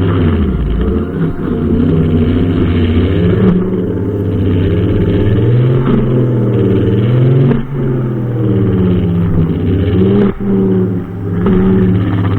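Brushcutter engine running under load, its pitch swooping up and down as the revs rise and fall with the cutting, with brief dips in speed a little past halfway and again near the end.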